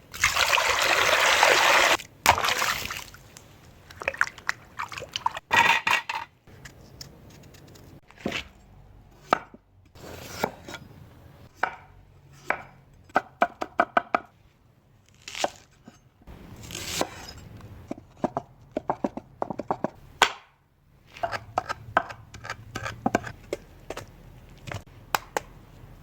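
Food-preparation sounds: many knocks, taps and chopping strokes of utensils on food and cookware, in clusters with sudden breaks. A loud steady rushing noise fills about the first two seconds.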